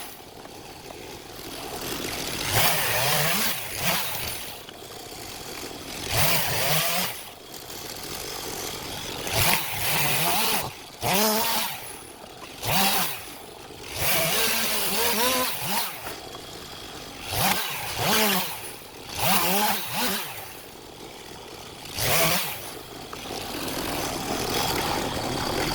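STIHL MS 251 two-stroke chainsaw running at idle and revved up in about fifteen short bursts, each rising and falling in pitch.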